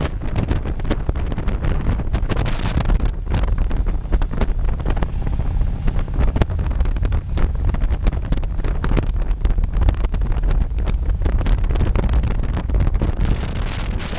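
Wind buffeting the microphone of a moving motorcycle: a loud, continuous low rumble broken by ragged gusts.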